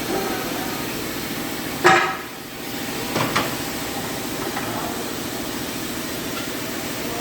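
A steady mechanical hum of workshop machinery or a running engine. About two seconds in comes one loud, short blast, and just after three seconds two quicker knocks.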